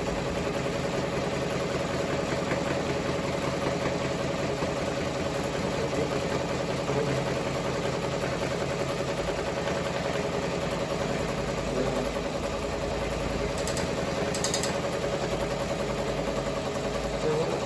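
Multi-needle Ricoma embroidery machine running, a steady, rapid, even stitching drone with a constant hum.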